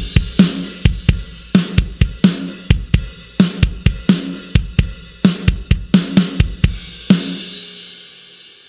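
Sampled acoustic drum kit from the Blasting Room Signature Series Kontakt library playing a groove of kick, snare and cymbals, several hits a second. About seven seconds in it ends on a final crash that rings out and fades away.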